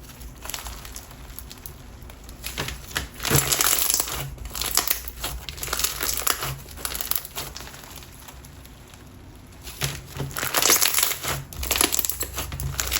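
Clear glue slime with pumice stone mixed in, crunching and crackling as it is squeezed and pressed by hand, in bursts with a quieter stretch about two-thirds of the way through. The slime is a little overactivated.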